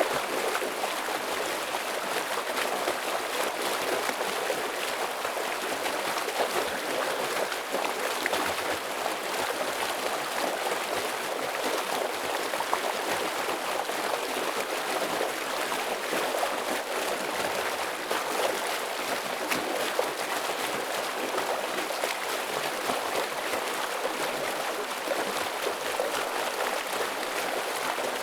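Forest stream flowing heavily over rocks: a steady, dense rush of water with small splashes and gurgles.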